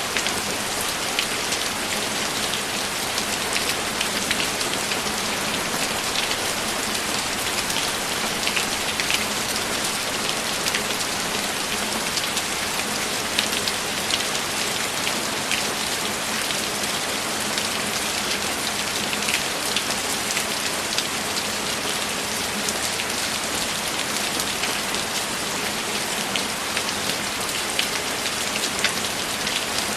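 Steady rain: an even hiss with many scattered ticks of single drops striking a surface.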